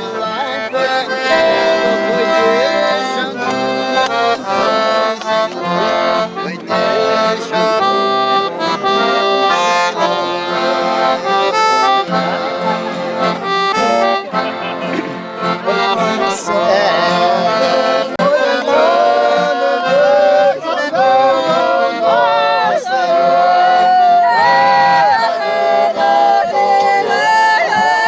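Accordion playing folk music, a quick run of short notes that gives way to longer, wavering held notes in the second half.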